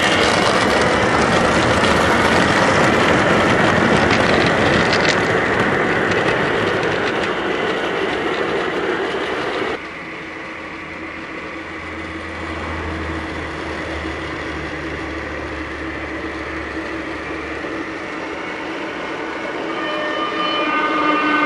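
M-Tronics Digisound diesel sound unit of a Gauge 1 Class 66 model locomotive running under power, loud and dense at first, then dropping abruptly to a quieter steady running sound with a low hum about ten seconds in. The model's electronic horn starts to sound right at the end.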